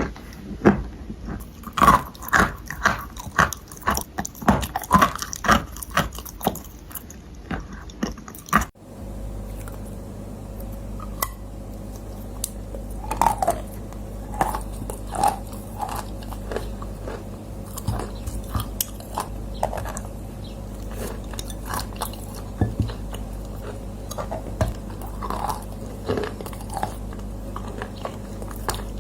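Dry clay being bitten and chewed close to the microphone, with crisp, rapid crunches. About nine seconds in, the sound changes abruptly to a steady low hum with softer, more spaced crunching chews.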